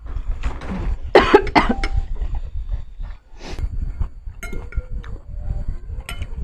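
A person coughing: a short run of three or so hard coughs about a second in, followed by a few light clicks.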